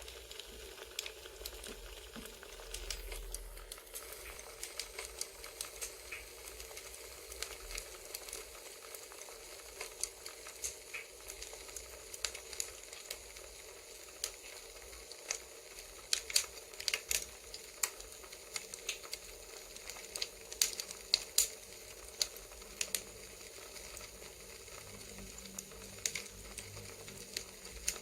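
Campfire ASMR: a wood fire crackling, a low steady hiss broken by irregular sharp pops and snaps that come thickest about two-thirds of the way through.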